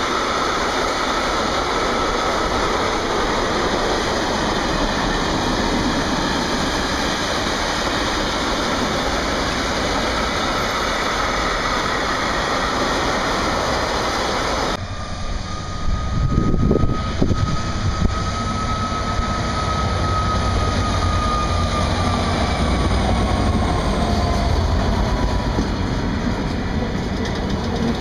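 Freight train wagons rolling past on the rails with a steady rumble and wheel noise. About halfway through, the sound changes abruptly to another freight train of empty container flat wagons, with a few loud low thuds and then a thin whine that slowly falls in pitch over the rolling rumble.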